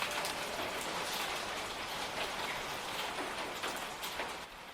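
Steady rain with scattered drop-like crackles, slowly fading out near the end.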